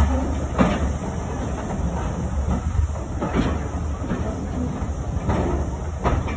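Steam-hauled heritage train rolling slowly, heard from the carriage: a steady low rumble with a few separate knocks as the wheels pass over rail joints.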